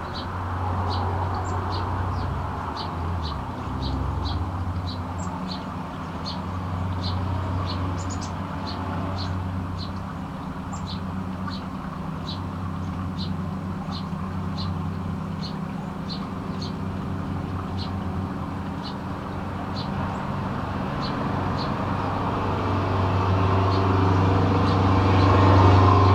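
A small bird chirping one short high note over and over, about twice a second. Underneath runs a steady low engine hum that grows louder near the end.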